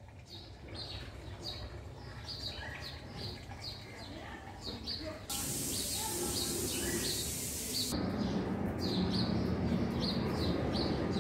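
A bird chirping over and over, short high chirps about two to three a second, over outdoor background noise. A hiss comes in suddenly for about three seconds midway, and a low rumble grows louder near the end.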